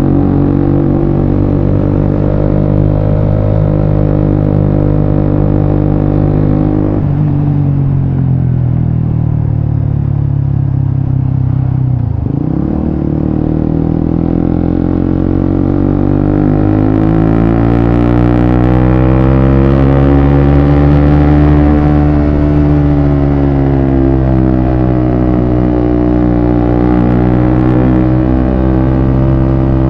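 Suzuki GSX-S150's single-cylinder engine running through an aftermarket Quinze Big Volume exhaust while being ridden. The note holds steady, drops sharply about seven seconds in and sinks for several seconds, then climbs again and rises and falls with the throttle.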